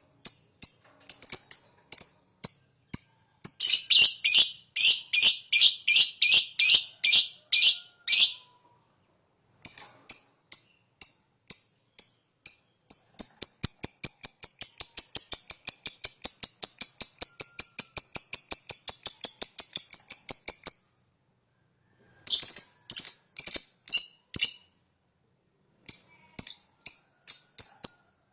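Lovebird calling in rapid series of short, sharp, high chirps. It comes in bursts with brief pauses and includes one long unbroken run of about eight seconds at roughly five chirps a second: the long chatter ('ngekek panjang') prized in fighter lovebirds.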